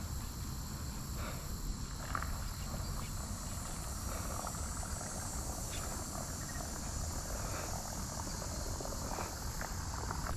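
Steady high-pitched insect chorus, with a low rumble underneath and a few faint knocks.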